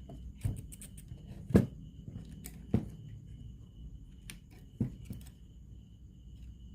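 Hands and tools working on a cassette radio: scattered sharp clicks with four louder knocks, the loudest about a second and a half in. A faint high whine pulses evenly underneath.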